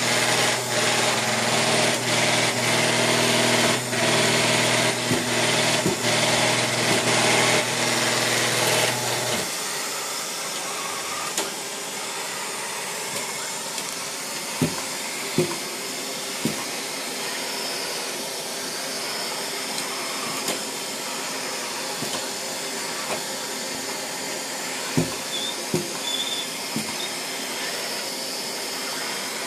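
Neato Botvac 75 robot vacuum running with a loud steady motor hum that drops suddenly to a quieter whir about nine and a half seconds in. A few sharp knocks follow as the robot bumps against the door.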